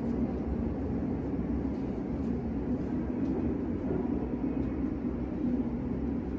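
Steady low rumble and hum of a train in a roofed station, with a few faint ticks over it.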